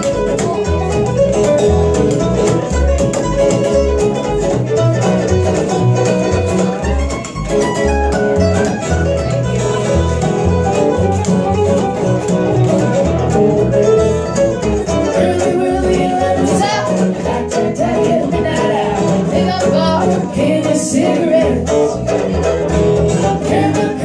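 Acoustic band playing an instrumental break in a bluegrass-country style: strummed acoustic guitar on a steady beat, with a fiddle playing over it.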